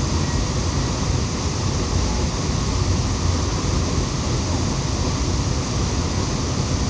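Steady rushing of a waterfall, an even full roar with a heavy low rumble.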